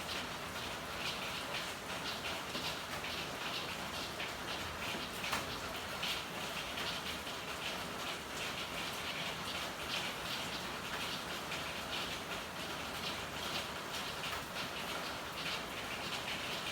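Steady rain with many close drips and splashes over an even hiss, and one sharper tap about five seconds in.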